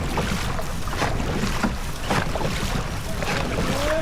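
Wind buffeting the microphone over a steady low rumble of a boat moving on the water, with gusts coming every second or so.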